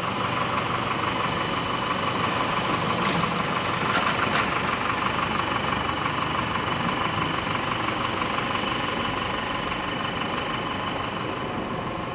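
Steady traffic noise with a vehicle engine idling, and a faint steady high tone running through it.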